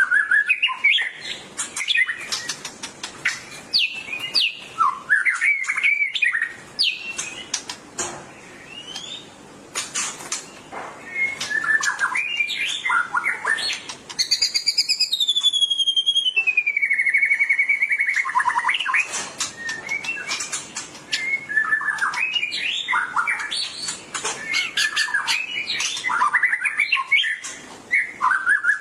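White-rumped shama (murai batu) singing: a varied run of whistled phrases with many sharp clicks in between, and one long falling whistle about halfway through.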